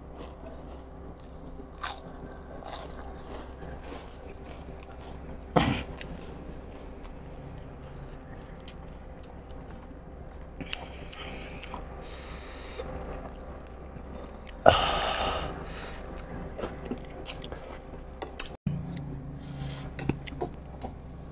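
A person chewing and biting food close to the microphone, with small wet clicks throughout and crunchy bites of fried food. One sharp crunch comes about five and a half seconds in, and a louder one comes near fifteen seconds.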